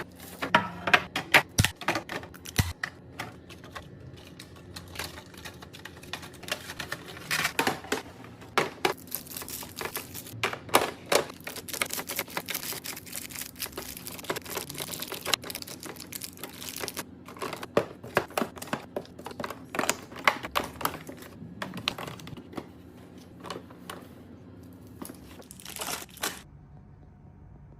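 Food packaging and containers being handled and set in place while a fridge is restocked: quick irregular clicks and knocks with crinkling plastic, stopping suddenly near the end.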